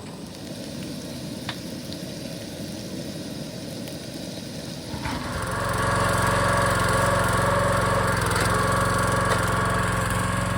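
A small engine running steadily at an even idle, coming in about halfway through over a low background hiss with a couple of faint clicks.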